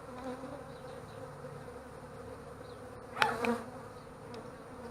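Honeybees from an opened hive making a steady hum, with one brief louder sound about three seconds in.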